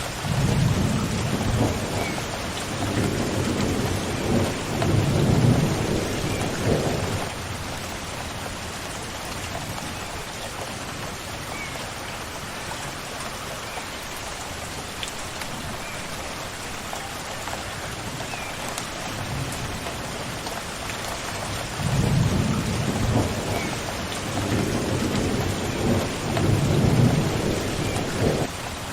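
Steady rain falling, with two long rolls of thunder: one in the first seven seconds and another starting about three-quarters of the way through.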